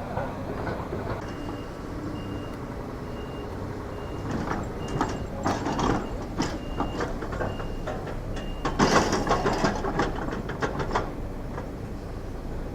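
A heavy machine's reversing alarm beeping steadily about once a second over a low diesel engine, stopping about two-thirds of the way through. Irregular clattering crashes and knocks of falling demolition debris start partway in and are loudest a little after the beeping stops.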